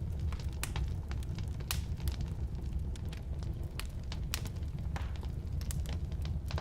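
Firewood burning in a fireplace: a steady low rumble of the flames with irregular sharp crackles and pops from the wood.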